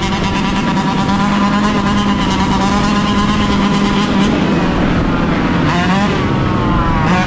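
Yamaha YZ125's two-stroke single-cylinder engine running at a steady engine speed under way, with a dip and rise in pitch about six seconds in and again near the end.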